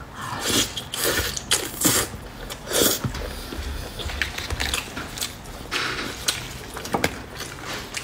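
Close-miked wet biting and chewing of soft braised meat: a series of short smacking mouth sounds, loudest in the first three seconds, then softer.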